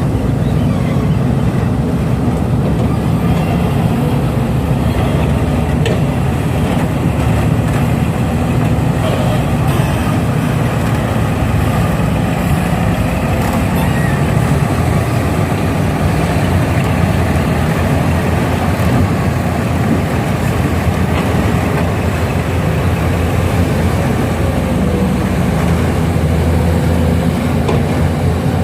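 Heavy diesel engines of an excavator and a dump truck running steadily with a low, even drone, with a few faint clicks.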